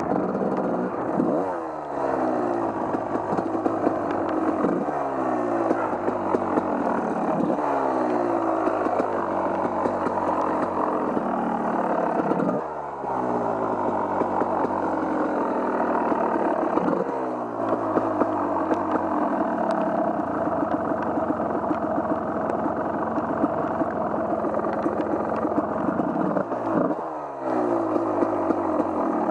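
Off-road vehicle engine working hard over a muddy trail, its pitch climbing again and again and dropping back sharply about six times, with the vehicle rattling along.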